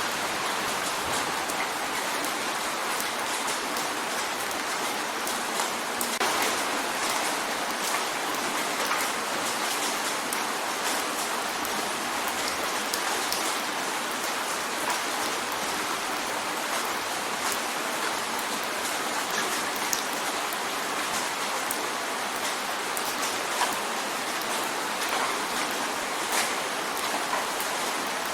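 Steady rain drumming on a window pane, an even hiss of rainfall with many small drop ticks scattered throughout.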